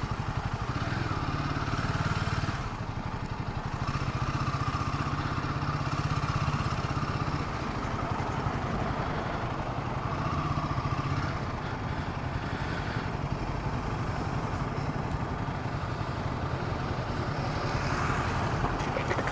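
Royal Enfield Himalayan 450's single-cylinder engine running steadily while the bike is ridden at low speed in traffic.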